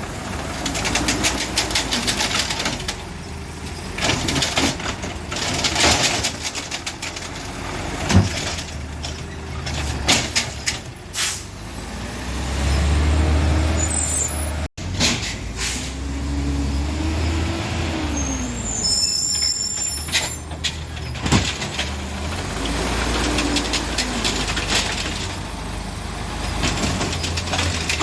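Garbage truck at work: its engine runs and revs up and back down once, air brakes hiss, and there are several sharp knocks and bangs.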